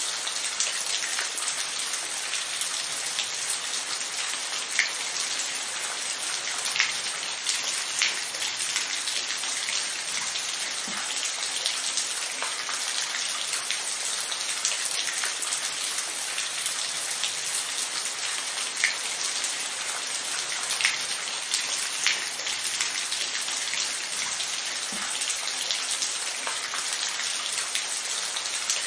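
Steady rain, an even hiss with individual drops ticking sharply on a nearby surface every second or so.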